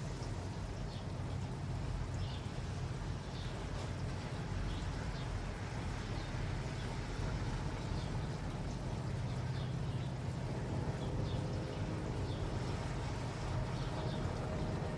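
Outdoor ambience: a steady low rumble and hiss with short high bird chirps every second or so, and a low hum, like a passing vehicle, joining in about ten seconds in.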